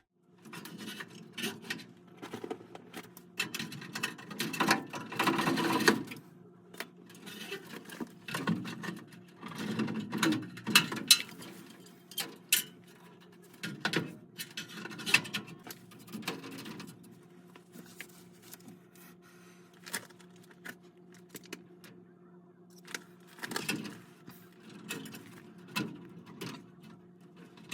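Irregular clicks, taps and rubbing of hands handling and working on metal parts, over a steady low hum.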